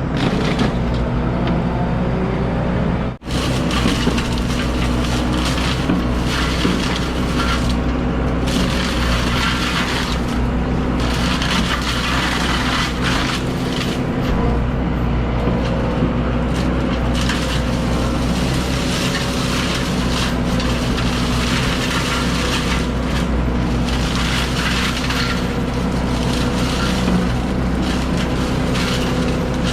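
Excavator's diesel engine running steadily under load while a hydraulic forestry mulcher head shreds brush and wood. There is a brief cut-out about three seconds in.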